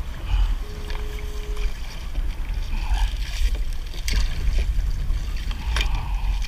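Low wind rumble on the microphone, with water splashing and a few sharp knocks and clicks as a crab trap is hauled up by its line alongside a kayak.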